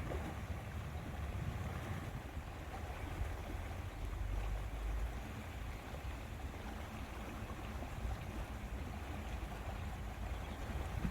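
Wind rumbling on the microphone over a steady rush of lake water.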